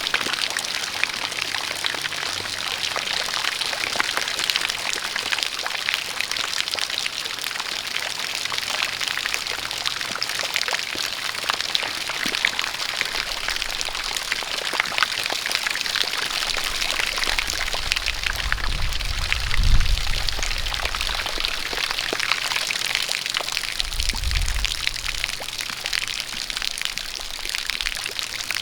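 Steady rain falling, a dense patter of drops, over a stream of water pouring from a spout. A low rumble swells about two-thirds of the way through, and a shorter one follows a few seconds later.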